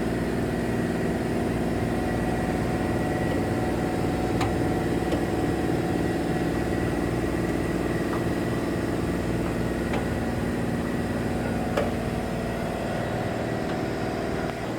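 Raypak commercial boiler running and firing, a steady mechanical hum made of several held tones, with a few faint ticks.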